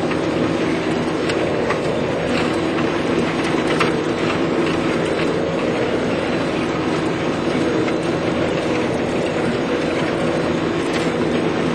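Claas 900 forage harvester running steadily while chopping silage: an even, heavy machine drone with a few sharp ticks scattered through it.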